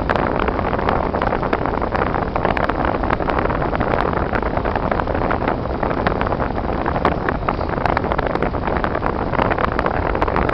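Car driving steadily, a constant rumble and hiss of road and engine noise with many small scattered ticks.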